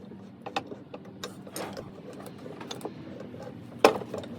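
Scattered light clicks and taps, with one sharper click near the end, over a steady low hum.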